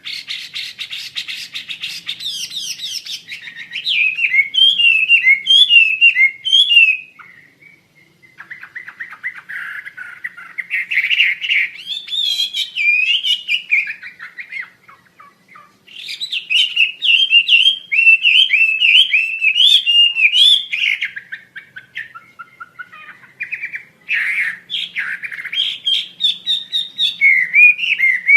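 Songbird of the kind sold as 'wambi Asia' singing loudly in long bursts of rapid, varied chattering and warbling notes, broken by short pauses.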